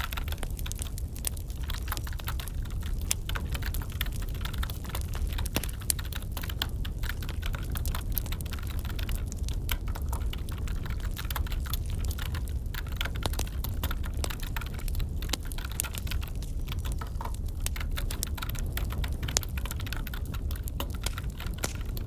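Wood fire crackling and popping over a steady low rumble, mixed with the light clicks of computer keyboard typing.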